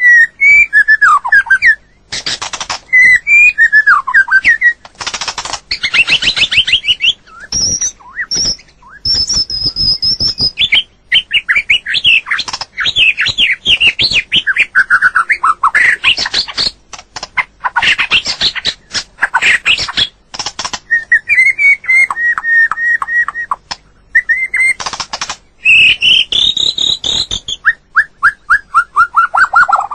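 White-rumped shama singing close up: a long run of varied, loud whistled phrases that slide up and down, with fast repeated-note trills, some falling in pitch, and many sharp clicks between them.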